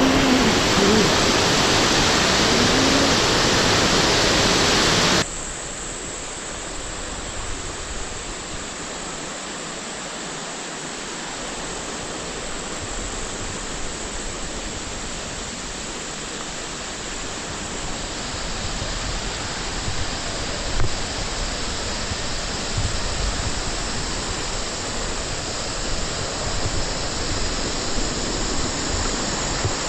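Steady rushing noise, loud at first, then cut abruptly to a quieter, even rush about five seconds in.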